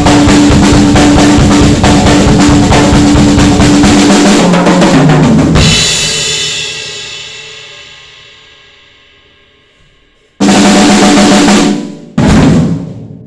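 Sound Percussion Labs Unity 2 drum kit with Soultone NOA cymbals played fast and hard, ending about five seconds in on a cymbal crash that rings and fades for several seconds. About ten seconds in comes a burst of rapid hits that stops short, then one more short burst of hits that rings out.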